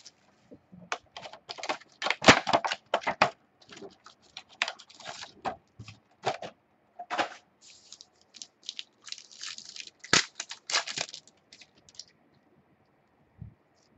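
Trading card packs being torn open and the cards handled: a quick, irregular run of crinkles, snaps and clicks, which stops about twelve seconds in.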